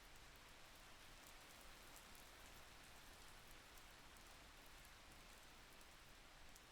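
Faint, steady rain: an even patter with tiny drop ticks and no change over the few seconds.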